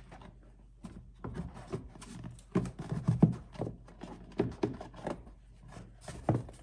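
Irregular knocks, clicks and rubbing as a new engine air filter is pressed into a pickup truck's plastic air cleaner housing and the lid is closed, with the sharpest knock about three seconds in.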